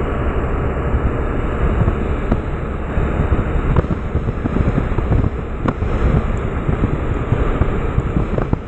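Wind buffeting the microphone over the steady running noise of a Meteor hydrofoil's diesel engines and water rushing past the hull while it cruises at speed.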